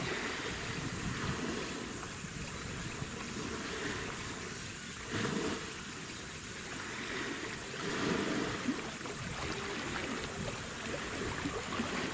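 Wind buffeting the microphone in irregular gusts, strongest about five and eight seconds in, over a steady outdoor hiss.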